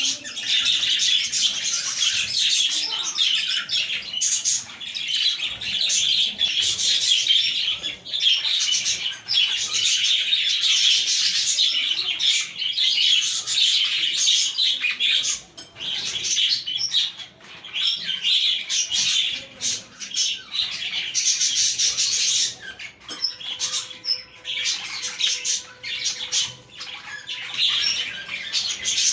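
A flock of budgerigars (parakeets) chattering and chirping continuously, with many high warbling calls overlapping and brief quieter dips about halfway through and again toward the end.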